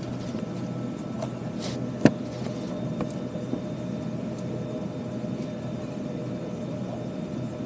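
Steady cabin air and hum inside an Airbus A320 parked at the gate before departure, with a sharp click about two seconds in and a few faint ticks.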